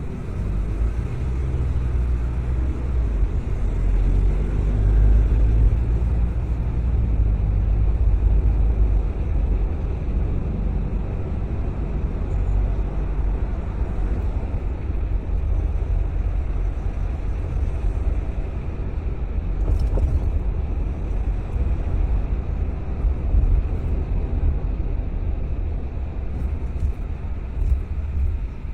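Car driving on city streets: steady low road and engine rumble, with a single short click about twenty seconds in.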